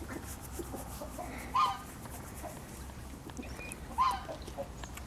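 Chickens clucking: two short, loud calls, one about a second and a half in and one near the end.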